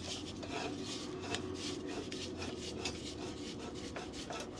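Faint rubbing and scraping as camp-stove gear and the propane bottle are handled, a quick run of light scrapes a few times a second over a steady low hum.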